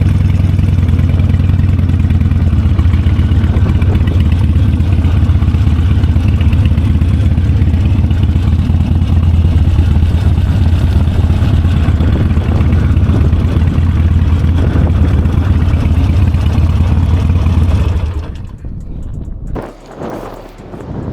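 Motorcycle engine running steadily at low speed, loud and close to the microphone. About 18 seconds in it drops away suddenly to a much quieter background.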